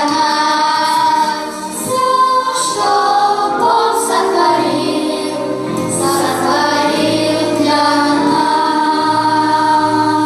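A children's choir singing a hymn with held notes, over a steady lower accompaniment.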